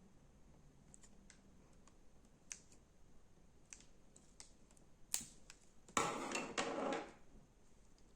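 Slime being worked by hand: scattered small clicks and pops, then about a second of dense crackling near the end.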